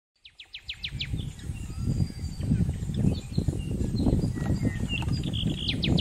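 Forest birds calling: a quick trill of about eight falling notes just after the start and another near the end, with scattered short chirps between. Under them runs a loud, uneven low rumble.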